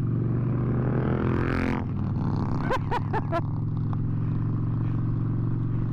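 Harley-Davidson V-twin motorcycle engine running steadily while riding, with four short high chirps about halfway through.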